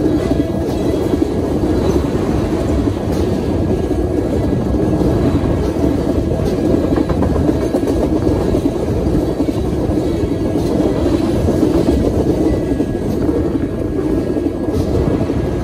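Freight train tank cars rolling past: a steady rumble of steel wheels on the rails, with a few faint clicks.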